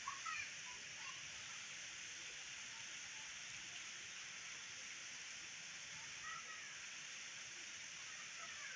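Steady hiss of rain falling at night, with a few brief high chirping calls from an animal near the start and again about six seconds in.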